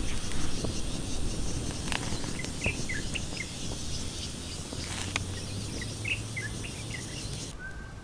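A steady high chirring of insects with short bird chirps in two brief runs and a few light clicks; the insect chirring cuts off suddenly near the end.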